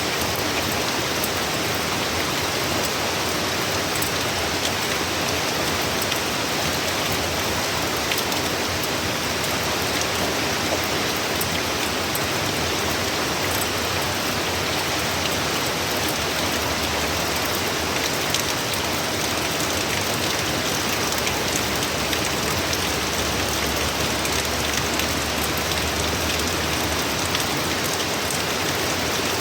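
Heavy hurricane rain pouring steadily, a dense even hiss with many fine droplet ticks on surfaces.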